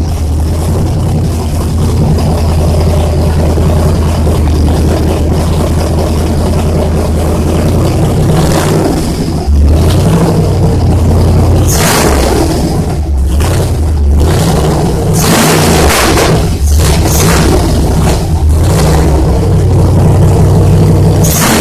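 Supercharged LSX 383 V8 with a Magnuson 2300 blower running on its first start-up on a base tune: a steady idle for about eight seconds, then revved in a series of short blips.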